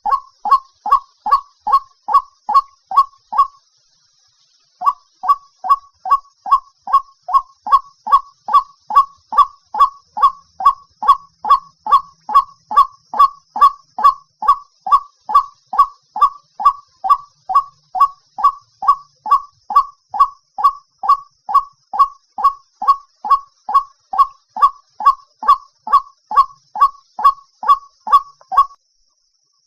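White-breasted waterhen calling in a long, even series of repeated notes, about three a second, with one short break about four seconds in. It is a recorded call played as a lure for bird trapping.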